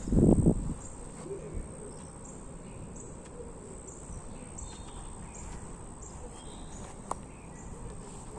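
Woodland ambience with a steady high-pitched insect drone and faint short high chirps repeating throughout. A low thump in the first half second and a sharp click about seven seconds in.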